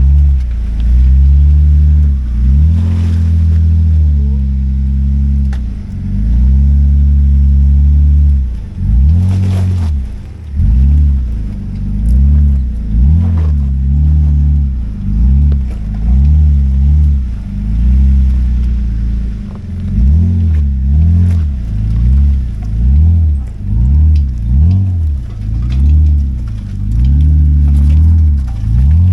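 A 4x4 vehicle's engine being revved up and down over and over, its pitch rising and falling about once a second in the later part, as the vehicle crawls over rough off-road trail.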